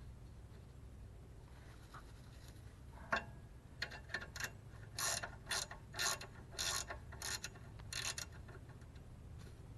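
Hand ratchet wrench being swung on a Miata exhaust bolt, a run of short clicking strokes about twice a second from about three to eight seconds in.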